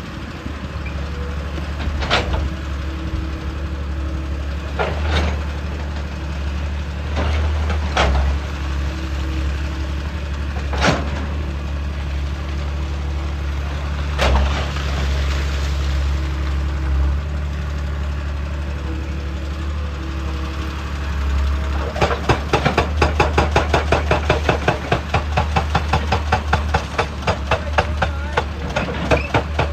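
Hydraulic excavator's diesel engine running steadily, with single sharp knocks every few seconds. About two-thirds of the way in a rapid, even hammering of about five blows a second sets in and keeps going.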